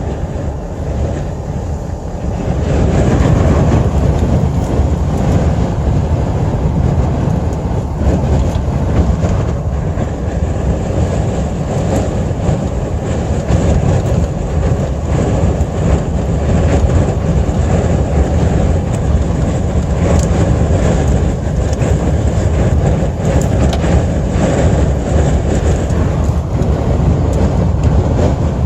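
Strong sandstorm wind blowing in a loud, steady rush, heaviest in the low end. It grows stronger about two and a half seconds in.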